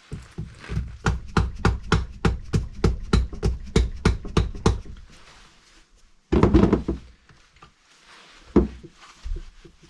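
Rapid hammer blows on a 1275 cc A+ Mini engine during strip-down, about five a second for several seconds, driving a part loose. After a pause comes a louder clattering burst and then a single thunk.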